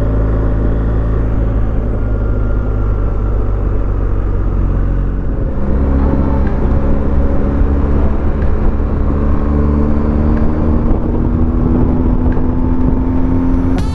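BMW R1250GS Rallye's boxer-twin engine and exhaust running under way, with wind rush. About five and a half seconds in, the engine note changes, then rises steadily as the bike accelerates.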